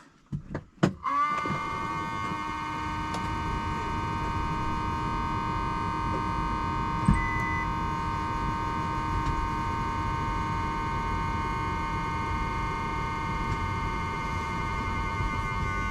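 A couple of clicks, then about a second in a steady, unwavering electronic warning buzz sets in and holds: the semi truck's dashboard warning buzzer sounding as the battery power comes back on.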